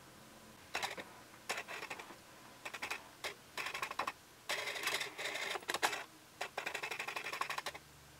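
Canon 50mm f/1.8 lens's autofocus motor buzzing and clicking in short, irregular bursts as it hunts and refocuses, picked up by the Canon 70D's built-in microphone.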